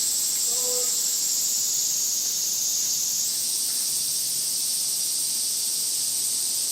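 Steady, shrill high-pitched chorus of insects, a continuous hiss-like drone that shifts slightly about three seconds in. A faint distant voice is heard near the start.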